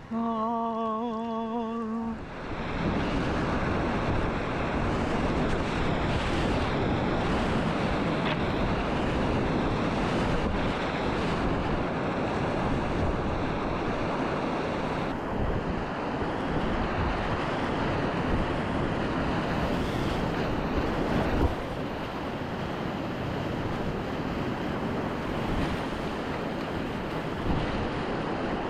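Class III whitewater rapids rushing loudly and steadily around a kayak, close on the microphone, with water and wind buffeting the mic. Just before the rush sets in, a short wavering held tone is heard, and there is a single sharp knock about twenty seconds in.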